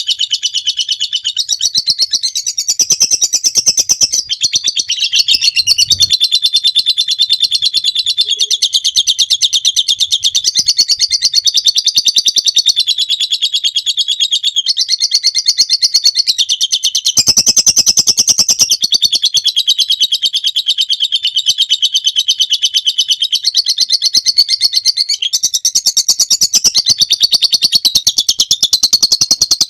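Lovebird in long 'ngekek' song: an unbroken chattering trill of very rapid, high-pitched notes, its pitch wandering up and down without a pause.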